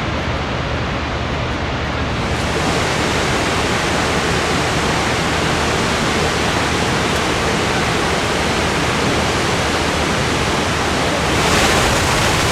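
Steady loud rushing noise with no pitch or rhythm, growing brighter and hissier about two seconds in and a little louder again near the end.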